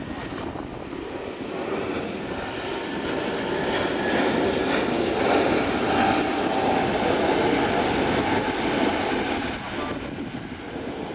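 Jet engines of an Asiana Airlines Airbus A380-800 running, a steady rushing noise that swells a little midway and eases toward the end.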